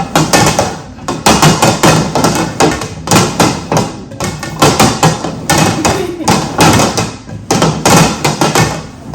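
Rapid, irregular knocking and thumping, several knocks a second, while the hidden food items are shuffled.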